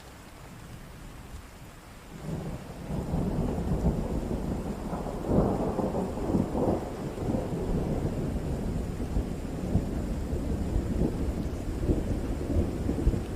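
Thunder rumbling during steady rain: a low rumble builds about two seconds in, swells strongest a few seconds later and keeps rolling.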